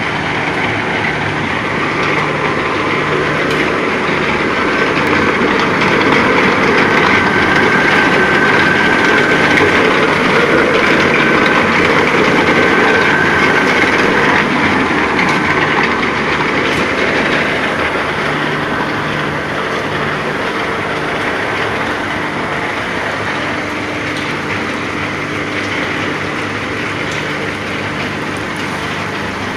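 Ball mill grinding lithium ore: a steady, dense mechanical noise with a faint whine over it, a little louder in the middle.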